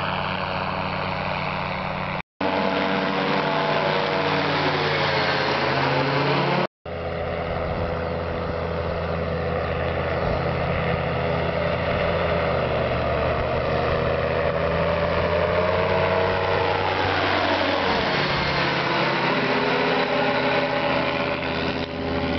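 Paratrike's engine and propeller running loudly, the pitch sliding down and back up several times. The sound cuts out for an instant twice, about two and seven seconds in.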